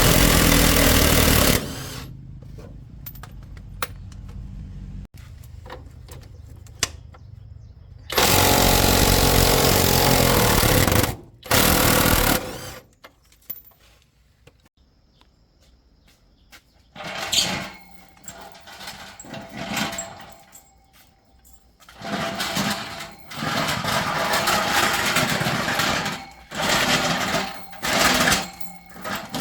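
A handheld power tool run in bursts of one to three seconds, with quiet gaps holding scattered clicks and knocks of workshop handling, then shorter, choppier bursts near the end.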